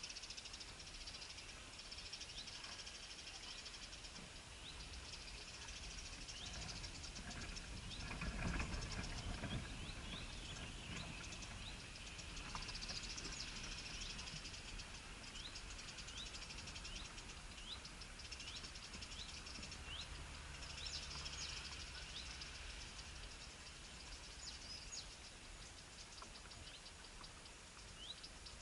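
Small birds chirping: many short, high, rising chirps repeated throughout over a faint high hiss. A brief low rumble comes about eight seconds in.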